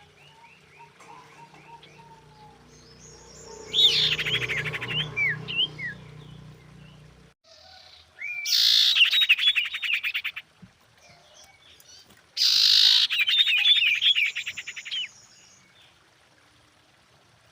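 Female common iora calling in three loud bursts of rapid chirps and trills, each a couple of seconds long and starting and stopping abruptly, with faint softer calls in between.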